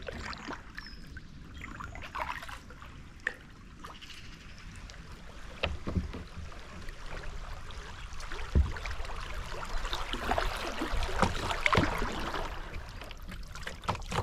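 Water rippling and splashing around a kayak drifting down a fast-flowing stream, with a few light knocks. It gets louder in the second half.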